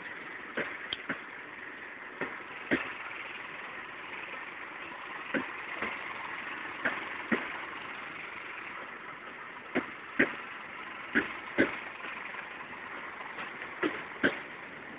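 Departing passenger train: its wheels clack sharply over rail joints, often in pairs about half a second apart as each bogie's two axles cross, over the steady running noise of the train.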